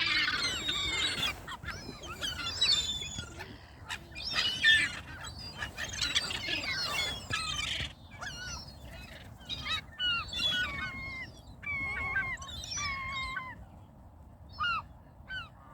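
A flock of waterbirds calling as they are fed: many high squawking calls overlap at first, then thin after about eight seconds to single calls, each falling in pitch.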